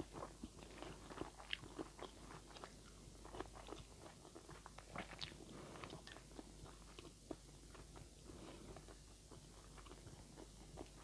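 Faint close-up chewing of instant noodles, with irregular small wet clicks and smacks of the mouth. Chopsticks stir and lift the noodles on the plate.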